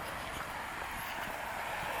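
Outdoor street ambience: a steady wash of traffic noise with a few faint clicks.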